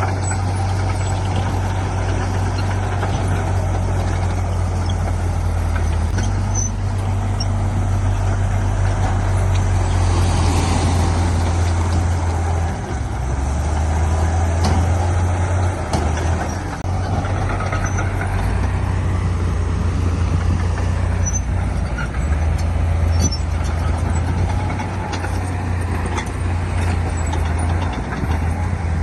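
Heavy diesel earthmoving machinery running under load, a bulldozer with dump trucks. A low engine drone shifts in pitch every few seconds as the load changes, with faint scattered clanks.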